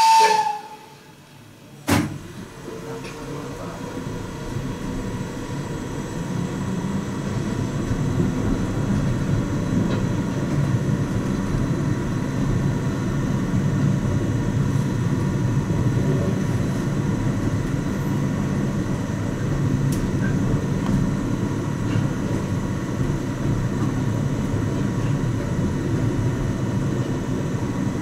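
The end of a whistle, then a sharp knock about two seconds in as the small tourist mine train starts off. After that the rumble of the carriage running on its rails builds over several seconds and holds steady, heard from inside the carriage.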